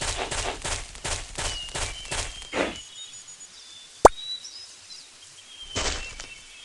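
Birds chirping over a quick run of rustling strokes, about four to five a second, that stops about three seconds in. A single sharp pop about four seconds in, and a brief rustle near the end.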